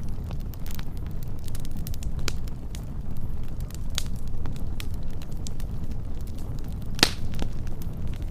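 Wood fire burning with a steady low rumble and scattered crackles and pops, one louder pop about seven seconds in.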